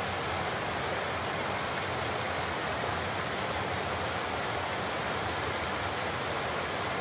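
Large waterfall, water falling and crashing in a steady, even rush.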